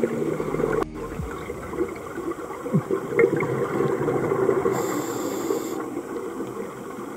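Underwater sound of a scuba dive: a diver's regulator breathing and bubbles, with a short hiss about five seconds in.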